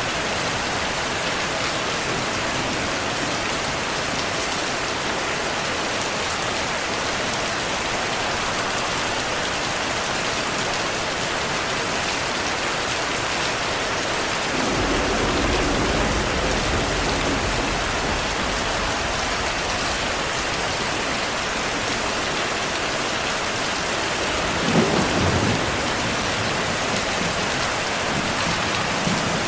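Steady rainfall with thunder: a low rumble of thunder about halfway through that lasts a few seconds, and a sharper, louder thunderclap about five seconds before the end.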